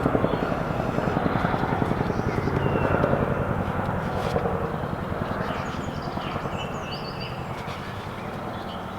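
Helicopter flying over, its rotor's rapid, even beat slowly fading as it moves away.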